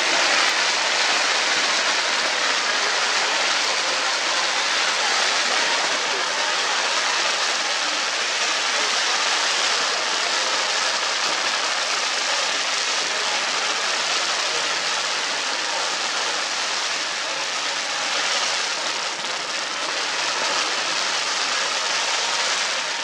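Fireworks crackling densely and without pause, countless small pops merging into one steady hiss.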